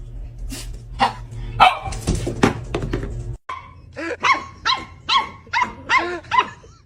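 A dog barking: a few loud barks, then, after a sudden cut, a quick regular run of about seven high barks, roughly two a second.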